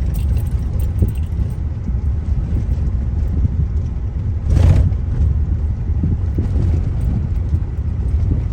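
Car interior road noise: a steady low rumble of engine and tyres on a rough, graded road, with a brief louder rush of noise about halfway through.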